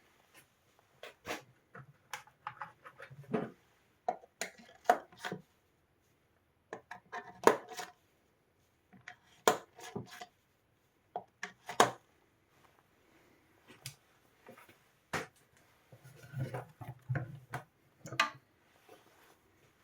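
Irregular clicks, taps and light clatters of parts and tools being handled on a workbench while the soundbar is taken apart, with a few dull knocks near the end.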